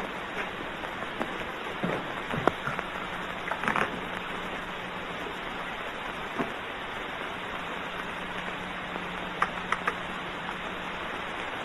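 Steady hiss with a constant low hum and scattered faint clicks and pops: the background noise of a 1929 film's optical soundtrack during a pause in the dialogue.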